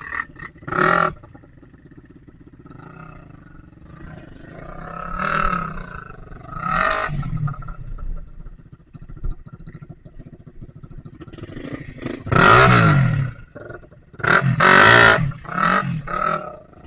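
Dirt bike engine revved in repeated short bursts, its pitch rising and falling with each blip, loudest near the end.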